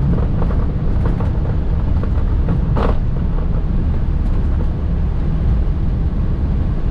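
Airbus A320 on its landing roll heard from the cockpit: a steady low rumble of engines, airflow and wheels on the runway, with a brief hiss about three seconds in.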